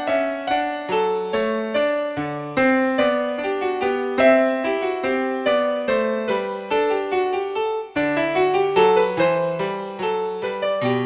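Background piano music: a steady run of struck notes that ring and fade, about two to three a second.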